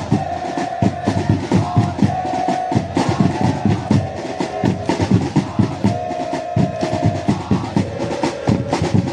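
Supporters' drums in the stand beaten in a fast, steady rhythm, with a crowd chant of held notes that step up and down in pitch over them.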